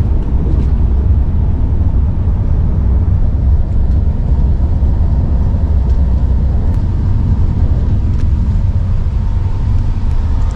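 Double-decker passenger train running, a steady low rumble with faint clicks over it.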